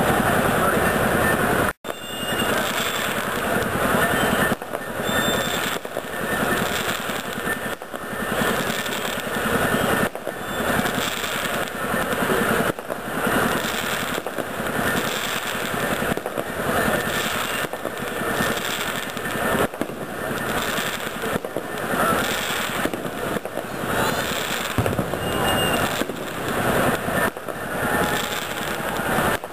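Fireworks going off in a dense, continuous barrage of bangs and crackling, with a brief break about two seconds in.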